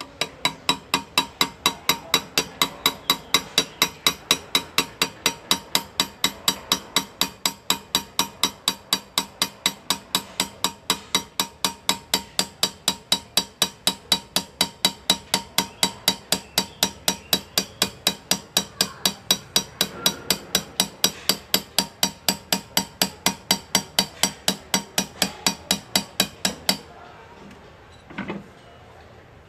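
Hand engraving: a small hammer tapping a graver chisel into metal in a steady, even rhythm of about four ringing strikes a second. The tapping pauses briefly near the end, then starts again.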